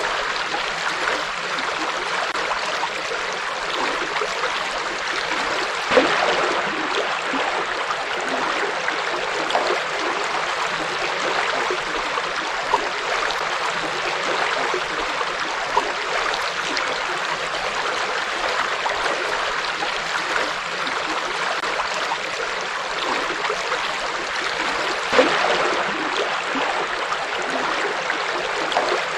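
A river flowing steadily over rocks, with a few brief louder splashes and gurgles.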